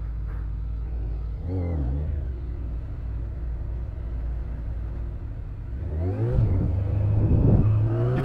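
Yamaha FZS600 Fazer's inline-four engine running under a steady low rumble as the motorcycle is ridden; its note dips and rises about two seconds in, then climbs as the bike accelerates over the last couple of seconds.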